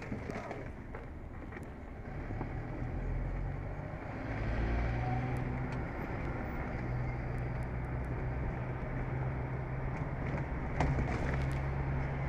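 Car engine running while being driven, heard from inside the cabin, the engine note getting louder about two seconds in and again a couple of seconds later as the car picks up speed.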